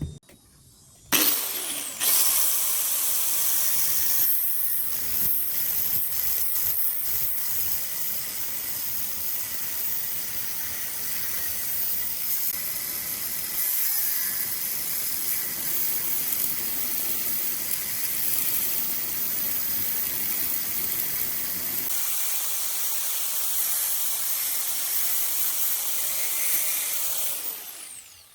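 Power tool with a high-speed electric motor, in a video about tools made from angle grinders, starts suddenly about a second in and runs steadily with a loud hissing whir. Near the end it winds down and stops.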